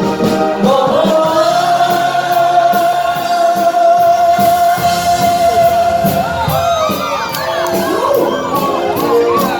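Cantonese pop song sung live over a backing track: the singer holds one long note for about five seconds, then sings quick wavering runs up and down near the end.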